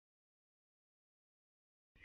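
Near silence: the soundtrack drops out completely, with no sound at all.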